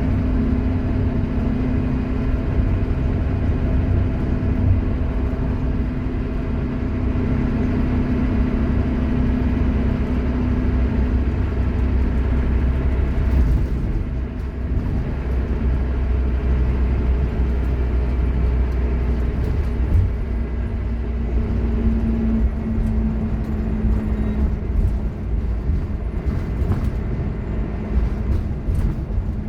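Scania K230UB Omnilink single-decker bus running, a low engine rumble under a steady whine from its loud ZF Ecomat automatic gearbox. The whine fades out a third of the way through and comes back a little lower near the end.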